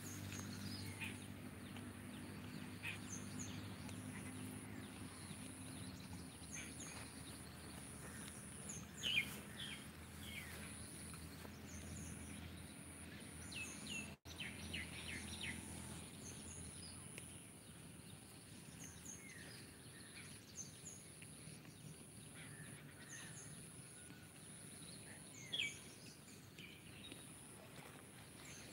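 Quiet outdoor ambience with scattered short bird chirps throughout, over a faint steady high-pitched tone.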